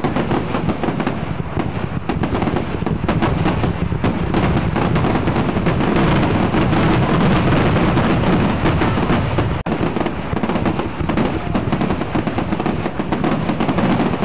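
Aerial fireworks going off in a dense, continuous barrage of overlapping bangs. The sound cuts out for an instant about nine and a half seconds in.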